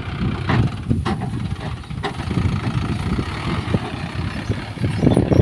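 Heavy diesel engine running at a steady low rumble, with three short sharp knocks in the first two seconds.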